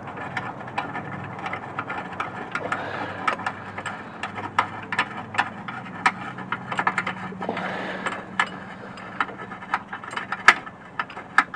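Hand tools working a bolt in a car's engine bay: irregular metallic clicks and light knocks from a wrench against metal, over a steady low hum.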